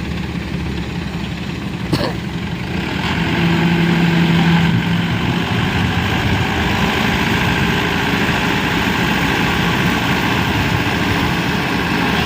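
A heavy vehicle's engine running steadily, with one sharp knock about two seconds in. It gets louder about three seconds in and holds there.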